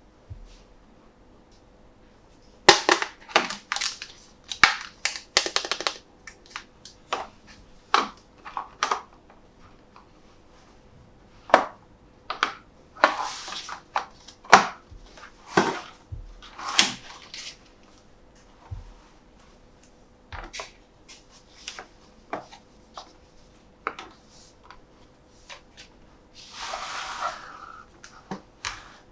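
Hands handling a toy monster truck and its plastic packaging: irregular clicks, taps and crinkles, with a longer rustle about two seconds long near the end.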